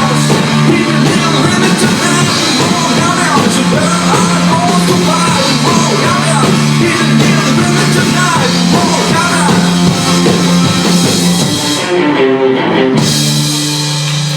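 Indie rock band playing live: drum kit and electric guitars at full volume. Near the end the drums drop out and a final chord is held and rings on as the song closes.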